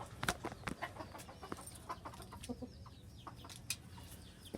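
Chickens clucking softly, mixed with scattered sharp clicks and knocks.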